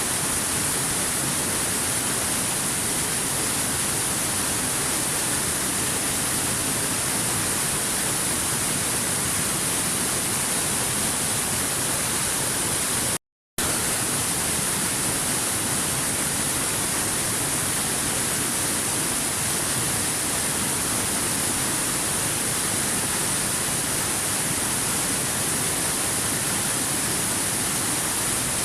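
Waterfall: a steady rush of falling water at an even level. The sound drops out completely for about half a second, about halfway through.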